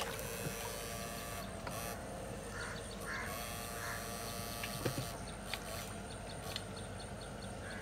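Faint short animal calls, repeated in pairs every second or so, over a steady low hum, with a few small clicks.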